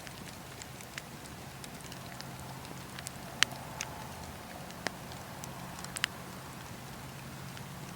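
Campfire burning: a steady low rush of flames with irregular sharp crackles and pops from the wood, the loudest pop about three and a half seconds in and a quick pair of pops near six seconds.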